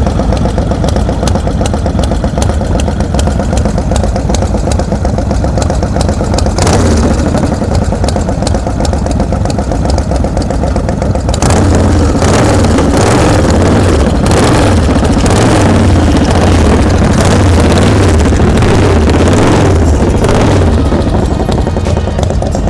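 Loud car engine running with an uneven, pulsing beat, growing louder and rougher about halfway through.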